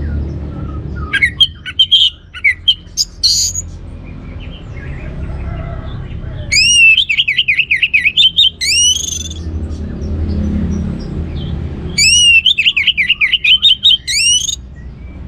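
Orange-headed thrush singing: a burst of varied short notes about a second in, then two phrases of fast repeated falling notes, one about six seconds in and another near the end. A low hum runs underneath.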